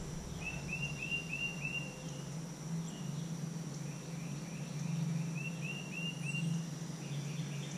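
Outdoor ambience: a bird gives a quick series of five short chirping notes about half a second in and four more about five and a half seconds in, over a steady high insect drone and a steady low hum.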